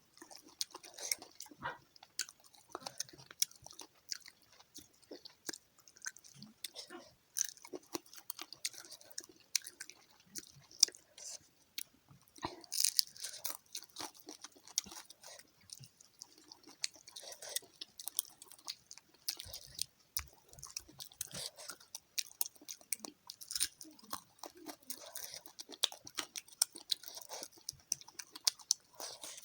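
A person chewing fried fish close to the microphone: irregular crunching and wet mouth clicks, with no pauses longer than a moment.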